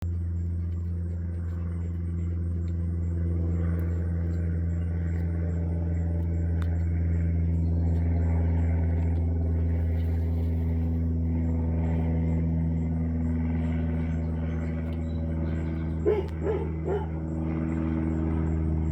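Steady low drone of an airplane's engine, its pitch drifting slowly. A dog barks about three times near the end.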